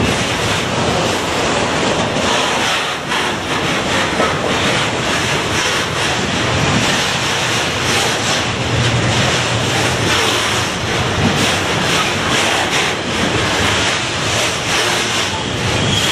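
Container freight train rolling past close by: a steady rush of wheel and rail noise from the loaded container flat wagons.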